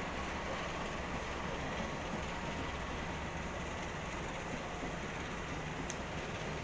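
Steady running noise of a passenger train rolling slowly, heard from inside the coach, with a faint tick near the end.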